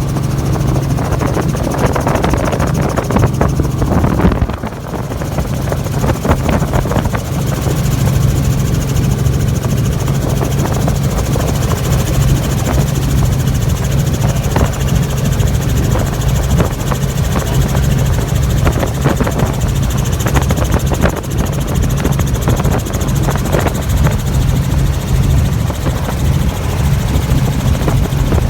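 Helicopter in flight heard from on board: a loud, steady drone of engine and rotor with a low hum. It dips briefly about four and a half seconds in.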